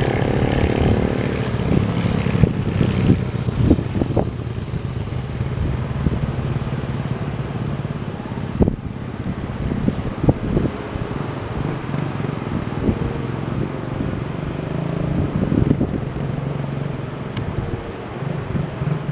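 An engine running steadily with a low hum, with wind noise and a few scattered knocks.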